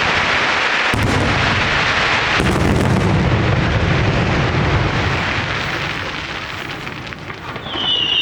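Fireworks display: a dense, continuous barrage of aerial shell bursts and crackle, with heavy booms from about a second in. It thins out near the end, when a high whistling firework starts, falling slightly in pitch.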